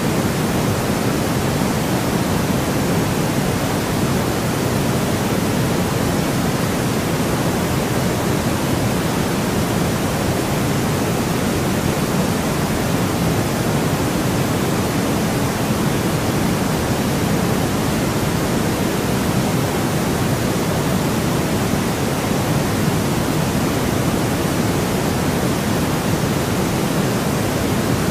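Steady, unchanging white noise: an even hiss across all pitches, a little fuller in the low-middle range, with no events or variation.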